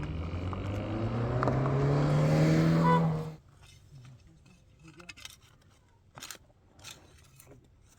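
An engine or motor running with its pitch and loudness rising for about three seconds, then cutting off abruptly; faint clicks and knocks follow.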